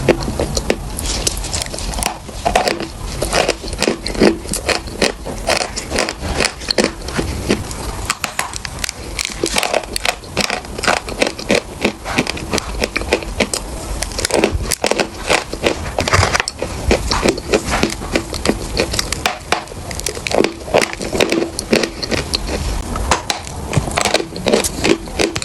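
Someone biting and chewing dry, crumbly chalk: a dense, irregular run of sharp cracks and crunches with no pause.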